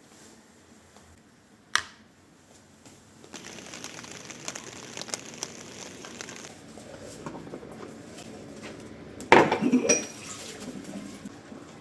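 Dishes and cutlery being handled in a kitchen: a sharp clink about two seconds in, a stretch of steady hiss, then a loud clatter of dishes near the end.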